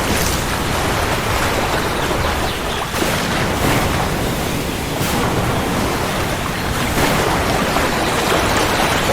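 Steady heavy rainfall, a dense even hiss with no thunder clap heard.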